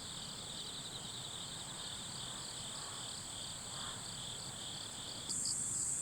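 Night insect chorus of crickets, a dense run of quick chirps over a steady high hiss. It gets abruptly louder about five seconds in.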